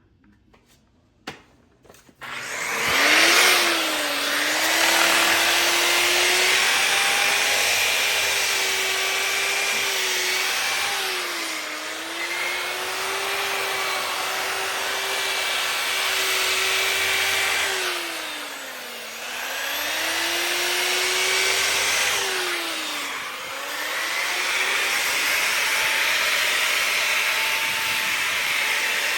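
A variable-speed grinder with a 320-grit sanding pad sanding a cast iron skillet. The motor starts about two seconds in and runs with a steady whine over the hiss of abrasive grinding on iron. Its pitch sags and recovers three times as the pad is pressed or the speed changes.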